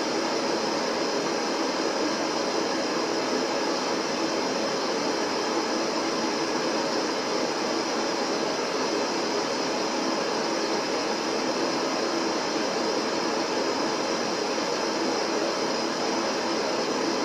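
Steady colored noise from a downloaded noise-generator track: an even hiss that does not change and has little deep bass.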